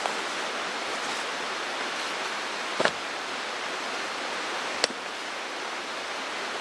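Mountain stream rushing steadily, with two short sharp clicks or knocks about two seconds apart.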